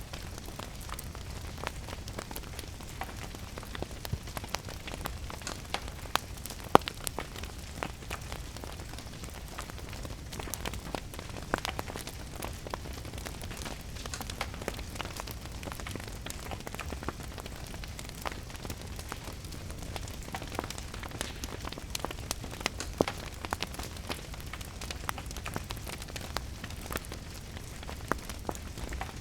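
Wood fire crackling in a fireplace, with many irregular sharp pops and one louder snap about seven seconds in, over a steady patter of rain and a low rumble.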